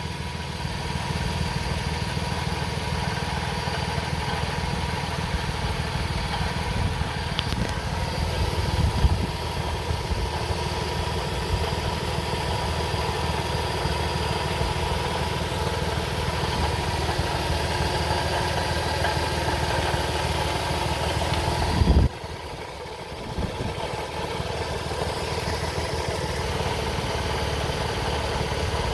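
2004 Toyota Sienna 3.3L V6 engine running with a steady high screeching tone over the engine sound, a very bad noise that is being traced among the pulleys, serpentine belt, water pump and timing belt. About three-quarters of the way through, the sound drops suddenly and carries on quieter.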